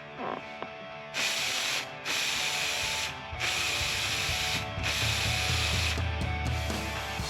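Paint being sprayed onto a motorcycle head cowl in four hissing bursts of about a second each, with short pauses between, over faint background music.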